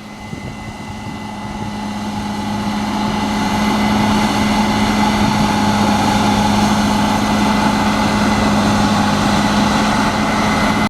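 Case IH Axial-Flow combine harvester running with a steady diesel engine and machinery hum while threshing wheat. It grows louder over the first few seconds as it comes closer, then holds steady.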